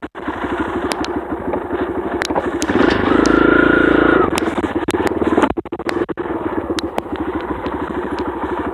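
Dirt bike engine running as the bike is ridden, revving up and getting louder about three seconds in, then dropping back a second or so later, with scattered sharp knocks and rattles.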